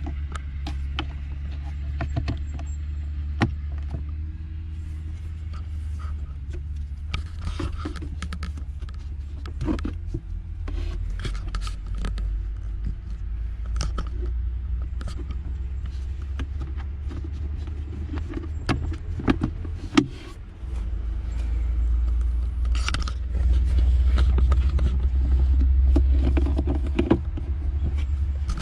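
Scattered plastic clicks and knocks from trim parts being handled while the cabin air filter is refitted behind the glovebox, over a steady low hum from the car. The hum drops briefly about two-thirds of the way through, then comes back louder.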